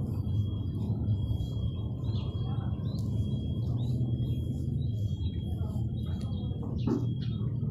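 Birds chirping in short calls over a low steady rumble, with a thin high-pitched whine that holds steady throughout.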